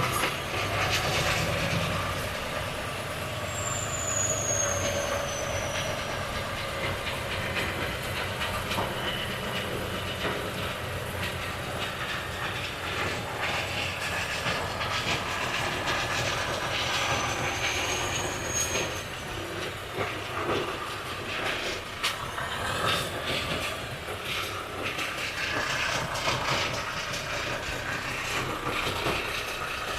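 Volvo FH truck moving slowly, its engine a low steady hum that fades over the first several seconds, with rattling and clicking throughout and two brief high squeals, one about four seconds in and one about eighteen seconds in.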